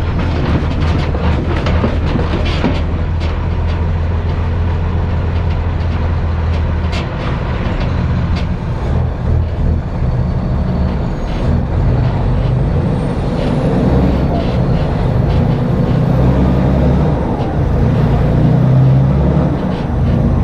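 Straight truck's diesel engine running under way, a low steady drone for the first several seconds that then shifts and varies in pitch.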